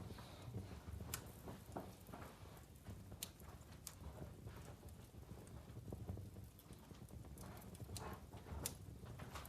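Logs burning in a wood-burning fireplace, crackling: irregular sharp pops and snaps over a low, steady rumble of the flames.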